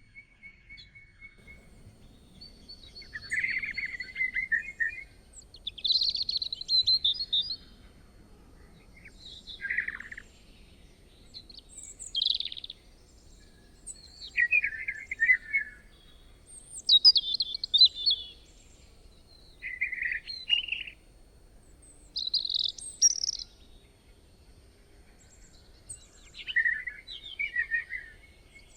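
Birds singing in short, varied chirping phrases, one every two or three seconds, with a faint steady high tone beneath them.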